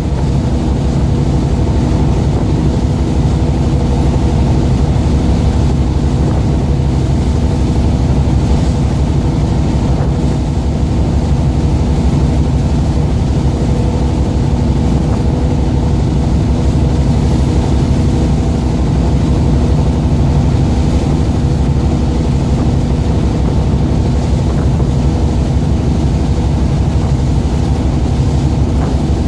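Fishing boat's engine running at a steady speed, a loud constant drone with a low hum.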